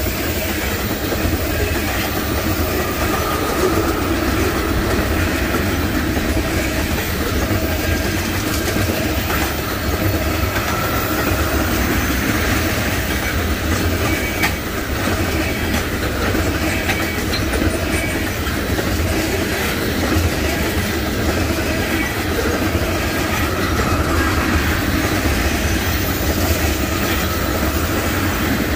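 Norfolk Southern freight train cars rolling past steadily, wheels clacking over the rail joints, with a faint wheel squeal now and then.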